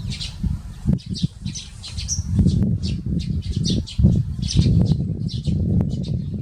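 Eurasian tree sparrows chirping, many short chirps in quick succession, over a steady low rumble.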